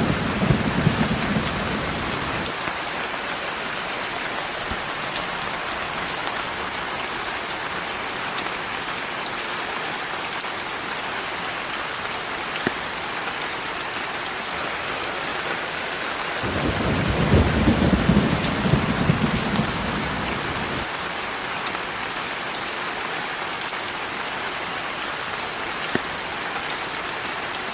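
Steady hiss of rain, with a low rumble in the first two seconds and another from about sixteen to twenty-one seconds in. A faint high sound pulses about once a second throughout.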